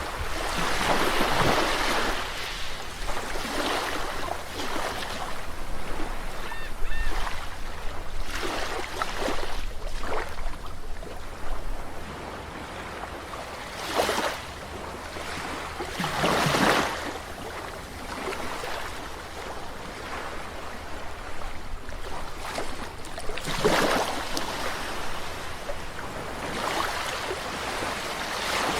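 Sea waves breaking and washing up a shore, the surf swelling and falling away every few seconds, with stronger surges about halfway through and again near the end.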